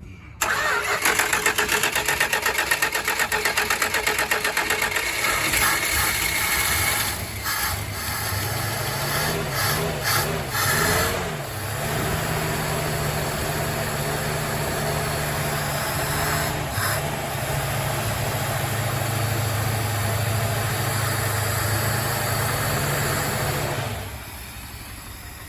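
Cold start of a 1962 Plymouth Valiant engine after fuel has been poured into the carburetor bowls. It catches about half a second in and runs with a fast pulsing beat. It is revved up and down a few times around ten seconds in, then settles into a steady idle. The sound drops away sharply about a second before the end.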